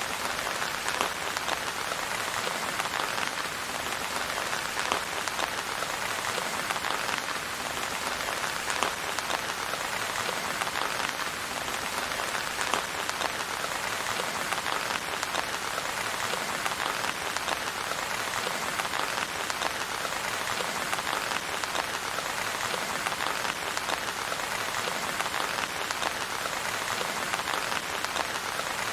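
Steady rain falling, with many fine drops striking a surface. The rain stays even throughout, with no thunder.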